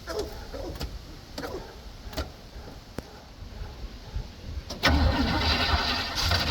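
The cold engine of a 1965 Chevrolet C10 pickup being cranked over by its starter, starting about three-quarters of the way in and not yet catching. A few faint clicks come before it.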